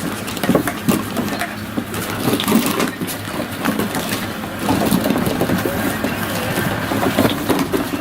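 Wolfdog pups mouthing and pawing at the camera right on the microphone: dense, irregular crackling, scraping and knocking, over a steady low hum.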